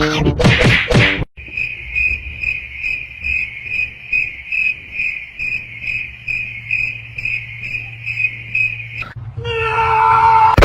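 Cricket chirping steadily in a high, even rhythm of about two to three chirps a second. A few loud sounds come before it in the first second, and a pitched call with several tones comes in near the end.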